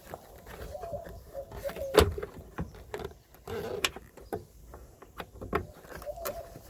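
Plastic turn-signal bulb socket cap being twisted and pushed back into a car's taillight housing: scattered clicks and scrapes, with one sharp knock about two seconds in.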